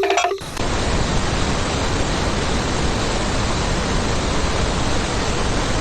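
A short repeating tune cuts off about half a second in and gives way to a steady, even rushing hiss with no pitch to it.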